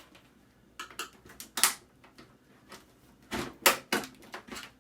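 Irregular clicks and knocks of plastic and metal parts of a microwave oven door being handled and pried apart, with a few sharper snaps, the loudest about one and a half seconds in and again past three seconds.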